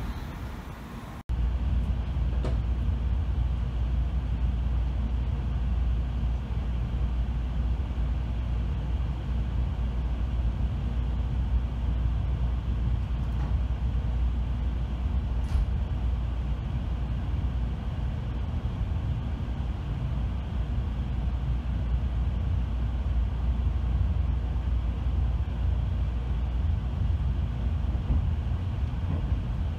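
Opens with the fading rush of a Shinkansen train passing at speed. After a sudden cut about a second in comes the steady low rumble of running noise heard inside an N700-series Shinkansen passenger car just after it departs a station.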